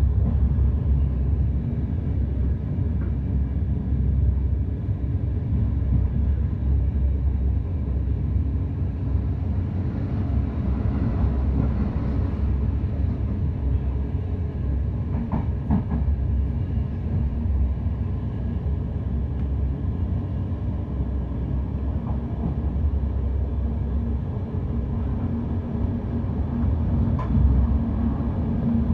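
Passenger train running: a steady low rumble with a faint constant hum, and a few brief clicks about halfway through and near the end.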